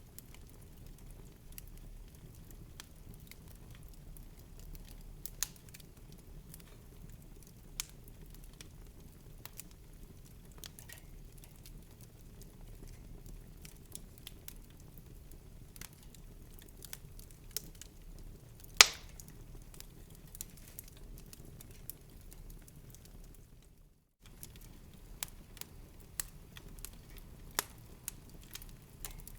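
Wood fire crackling in a fireplace: scattered small snaps and pops over a steady low rumble, with one much louder pop a little past the middle. The sound cuts out for a moment about three-quarters of the way through.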